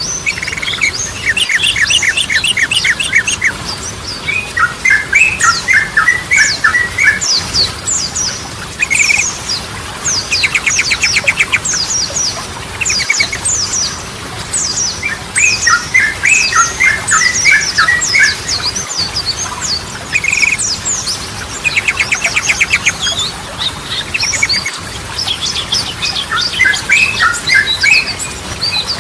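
Sooty-headed bulbul (trucukan) singing short, bubbly phrases of a few notes every couple of seconds, over a continuous run of rapid, high chirps and quick trills.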